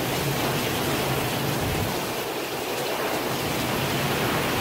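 Heavy rain pouring down in a thunderstorm downpour: a dense, steady hiss that holds even throughout.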